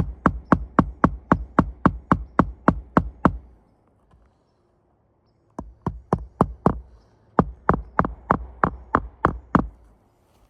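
Hammer driving roofing nails into a new asphalt shingle: sharp strikes about three a second, in three runs with short pauses between them.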